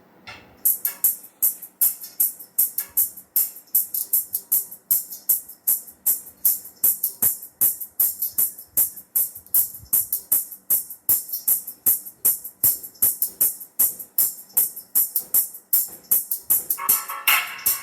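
Music on a sound system with only its crisp, tambourine- or hi-hat-like high percussion coming through: rapid, even hits several times a second, with little middle or bass. A mid-range part joins near the end.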